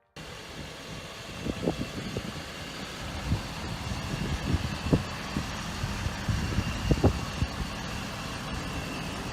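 Ford 6.7L Power Stroke V8 turbo-diesel idling steadily, with a few short irregular knocks over the low rumble.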